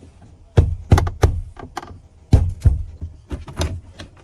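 A run of sharp knocks, about seven in all: three close together from about half a second to a second and a quarter in, two loud ones a little after two seconds, then two lighter ones near the end.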